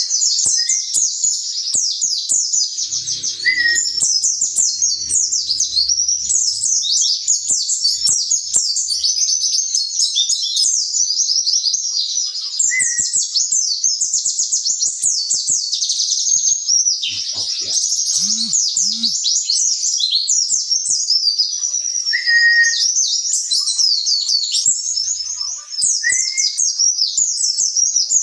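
White-eye (pleci) singing a fast, unbroken run of high twittering notes, the kind of song the bird gives in a fighting-spirit test. A few short lower whistled notes break in now and then.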